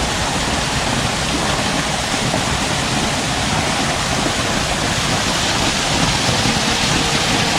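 Small man-made waterfall at a fountain, the falling water making a steady rush.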